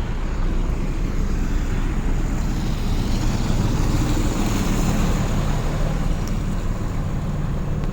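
City street traffic, with a large vehicle's engine running close by: a steady low rumble that grows stronger about halfway through, over a constant haze of traffic noise.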